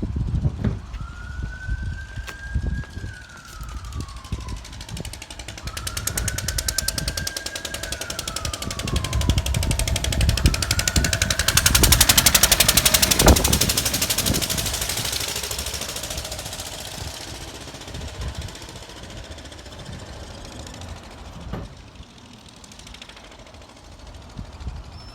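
A siren wails three times, each wail rising and then falling, over the steady low thudding of a Lister stationary engine running. A rhythmic sound swells to its loudest about halfway through and then fades away, as of a vehicle passing.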